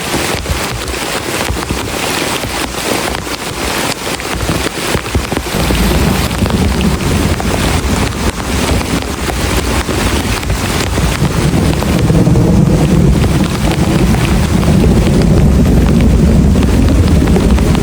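Very heavy rain drumming on a plastic tarp shelter. A deep low rumble joins in after about five seconds and grows louder near the end.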